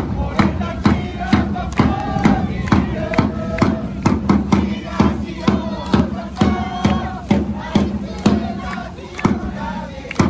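Football supporters chanting in unison to a steady drum beat of about two strokes a second.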